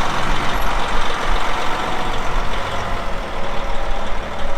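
Heavy diesel farm machinery running steadily, a loud even engine and mechanical noise.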